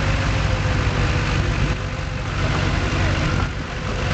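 A heavy vehicle's engine running steadily with a deep, low rumble.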